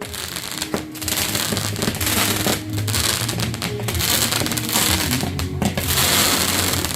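Firework crackling and fizzing in a dense, continuous shower of sparks, over music with held notes.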